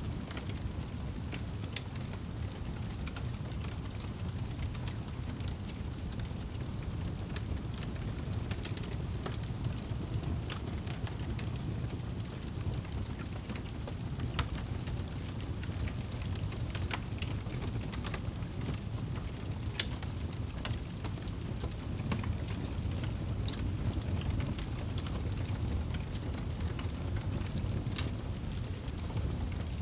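Wood fire burning in a fireplace: a steady low rumble of flames with irregular sharp crackles and pops, the loudest snap coming about two-thirds of the way in.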